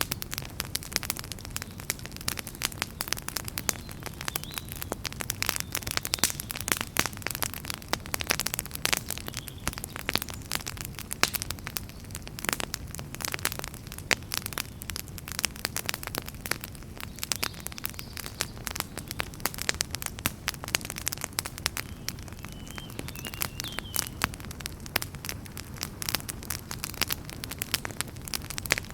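Wood fire burning in a fireplace, crackling and popping continuously with many irregular sharp snaps over a steady low rumble of the flames. A faint short whistle rises about two-thirds of the way through.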